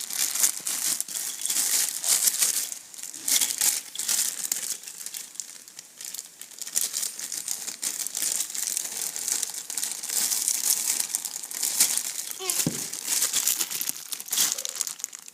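Plastic packaging crinkling and rustling continuously as toy pieces in plastic bags are handled and pulled out.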